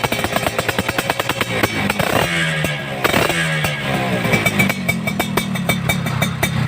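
Suzuki Satria RU two-stroke single-cylinder engine running through a Raptor aftermarket racing exhaust, its rapid firing pulses steady, with quick throttle blips about two and three seconds in whose pitch falls back after each.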